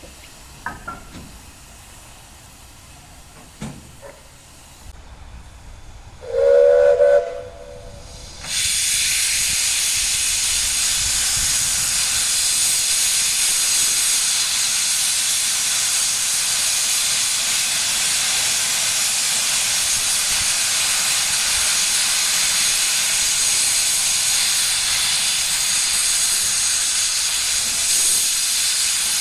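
Steam locomotive whistle giving one short blast about six seconds in. A couple of seconds later a loud, steady hiss of escaping steam starts and runs on unbroken.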